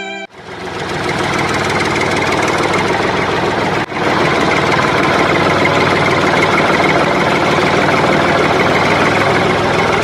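A motor running steadily with a dense, even buzz. It starts just after a short silence and cuts out briefly about four seconds in.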